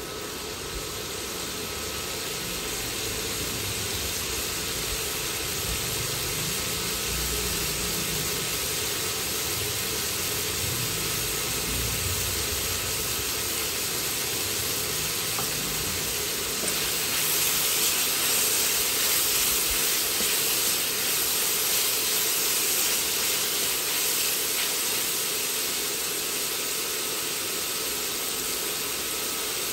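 Sliced bell peppers, tomato and meat frying in oil in a wok: a steady sizzling hiss that grows louder a little past halfway.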